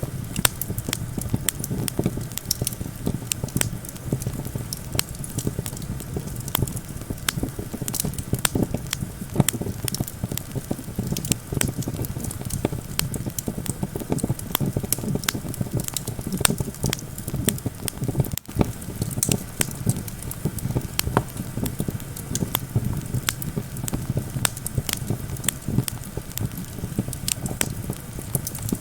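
Campfire burning: wood crackling and popping in frequent sharp snaps, over a steady low rumble of wind.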